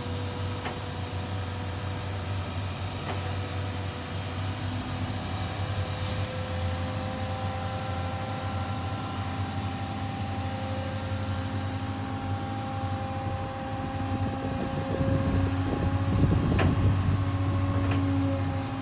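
Diesel engine of a Tata tipper truck running steadily while the Hyva hydraulic tipping gear raises the body to unload sand, with a steady whine that creeps slightly up in pitch. A louder rushing noise swells near the end.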